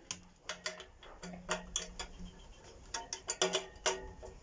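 Irregular clicks, knocks and clinks of hand tools and loose metal and plastic microwave parts being handled during dismantling, with a low hum that comes and goes.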